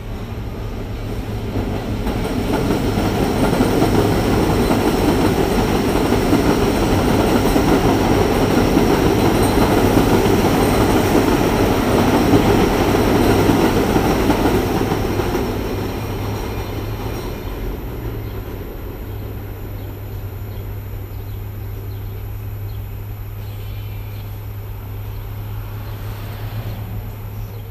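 Elevated subway train passing overhead on the steel el structure, heard from an open-top car below. It builds over the first few seconds, stays loud for about ten seconds, then eases off to a lower rumble.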